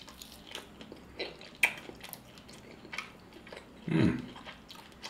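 Close-up chewing of crunchy fried popcorn chicken, with scattered crisp crunches and one sharp crunch a second and a half in. About four seconds in there is a short voiced murmur from the eater.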